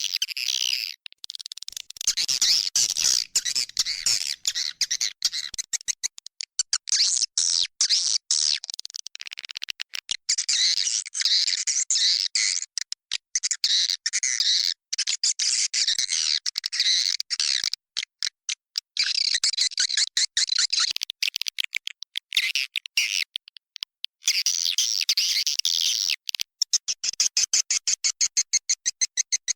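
A crowd of swiftlets chirping and twittering in a dense, fast, high-pitched chatter, recorded inside a swiftlet house and used as a call track to lure swiftlets in to nest. The chatter breaks off in many rapid short gaps.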